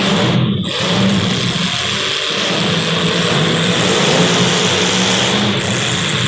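Several small race-car engines running hard on track, their pitch rising and falling as the cars lap.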